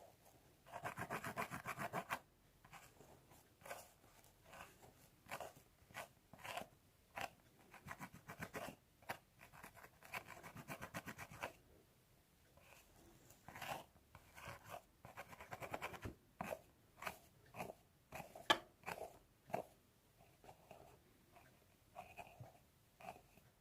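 Close-up scratching of a scalp through hair. Stretches of fast, rapid strokes alternate with slower single scratches.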